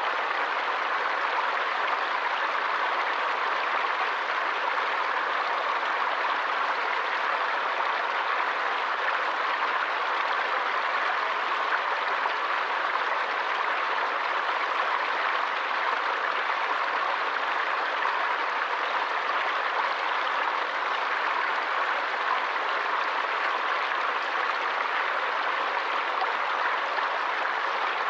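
A stream of water running steadily, an even rushing hiss with no breaks or single splashes.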